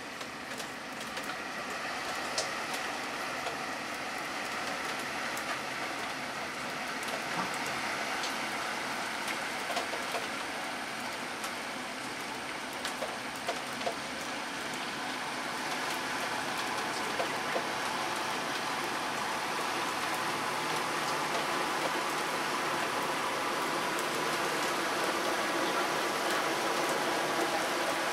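Steady hiss of rain and moving floodwater that slowly grows louder as a Jeep Wrangler drives through the flooded street, washing up a wake, with a few faint splashes and ticks.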